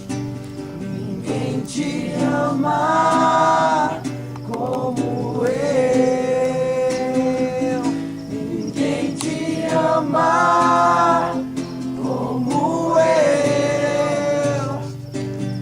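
Singing with music: a slow song of long held notes in phrases of a few seconds each.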